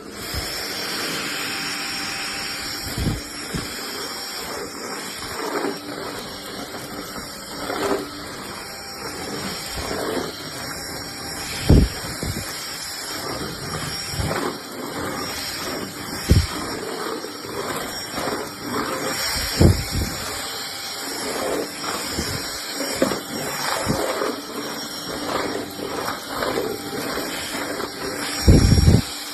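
Cordless stick vacuum cleaner running steadily with a high whine, with a few short low thumps as it is moved about.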